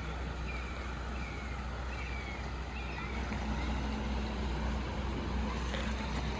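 Steady low rumble of outdoor ambience, with a bird repeating short falling chirps through the first half.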